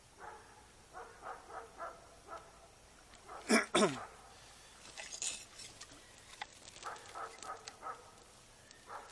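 Dogs barking: a run of short barks, then two loud barks with a falling pitch about three and a half seconds in, then more short barks near the end.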